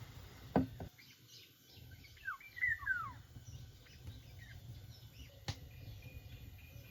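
A bird gives a quick run of short, falling chirps about two to three seconds in, over a low steady rumble. There is a sharp knock near the start and another past the middle.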